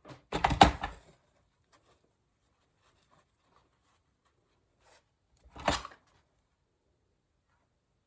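Two short bursts of handling noise, bumps and rustles of craft materials being moved: the louder one about half a second in, a shorter one a little before six seconds, with near silence between.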